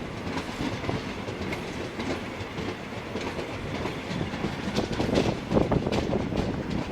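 A freight train of wagons behind a steam locomotive rolling along the track, its wheels clicking and clacking over the rail joints, getting a little louder about five seconds in.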